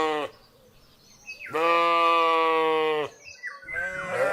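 Sheep bleating: the tail of one bleat, a pause, then one long steady bleat of about a second and a half, with another bleat starting near the end.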